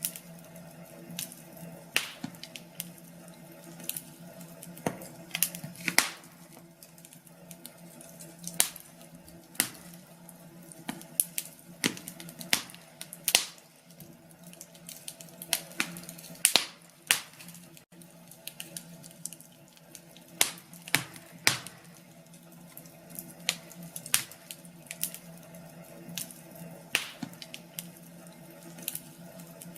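Wood fire crackling in a fireplace: irregular sharp pops, one to three a second, over a faint steady hum.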